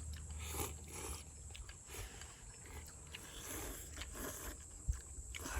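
People eating instant ramen noodles from a hot stew, with several short slurps and chewing sounds.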